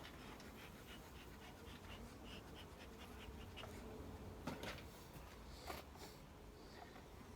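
Faint handling noise: a run of light ticks followed by a few louder clicks, over a low steady rumble.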